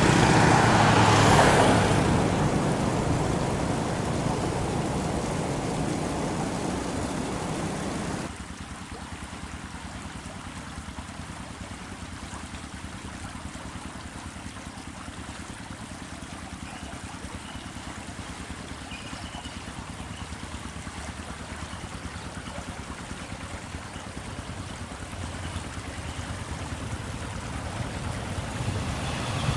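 A passing train roars by and fades away over several seconds. After an abrupt cut, a steady low background noise with a few faint high tones follows, and it grows louder near the end as the next train approaches.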